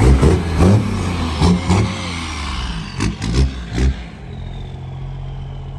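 Diesel trucks pulling in, engines revving in several quick blips, then settling to a steady idle for the last couple of seconds.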